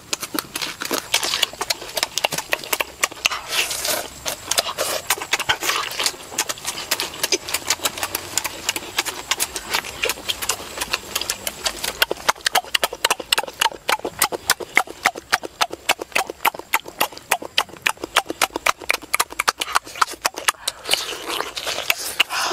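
Eating sounds of grilled chicken wings being chewed with the mouth open: a fast, uneven run of smacks and clicks, several a second, denser in the second half.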